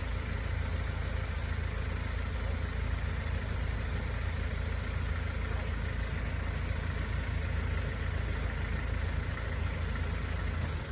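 Heavy earthmoving machine's engine running steadily, a constant low rumble with no revving.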